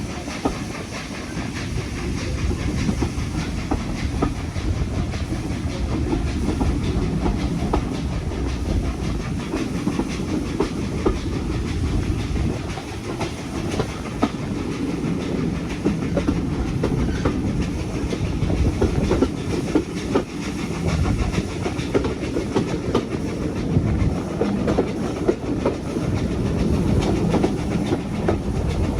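Heritage steam train running along the line: a steady rumble with the clickety-clack of the wheels over the rail joints.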